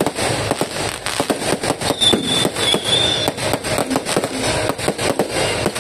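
Fireworks display: aerial shells bursting and crackling in quick, irregular succession, many sharp bangs and crackles overlapping, with a brief high whistle about two seconds in.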